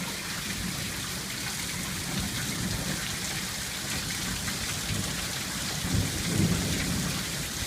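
Heavy monsoon rain pouring steadily, with a low rumble of thunder swelling about six seconds in.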